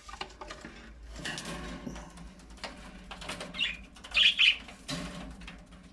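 Pet cockatiel chirping amid rustling and wing movement, with two loud short calls a little after four seconds in.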